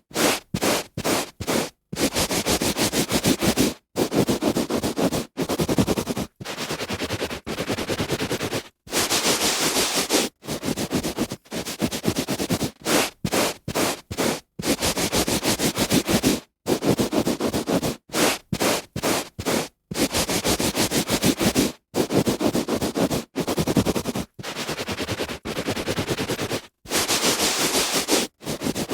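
A hand rubbing back and forth on a carpet: repeated scratchy strokes, some short and some lasting a second or two, with brief silent gaps between them.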